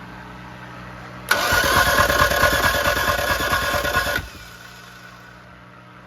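Celica's newly installed engine cranked over by the starter motor for about three seconds in even pulses without firing, then let go. It won't catch because there is no spark: the distributor cap isn't plugged in.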